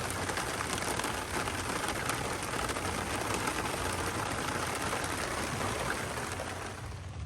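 Heavy rain falling steadily in a downpour, easing off slightly near the end.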